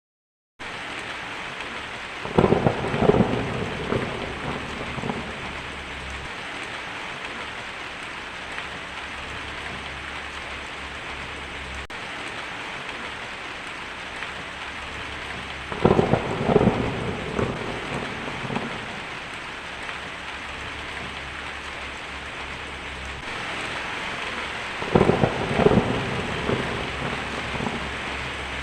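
Heavy rain falling steadily on a tin roof. Thunder rumbles three times: a couple of seconds in, a little past halfway, and near the end.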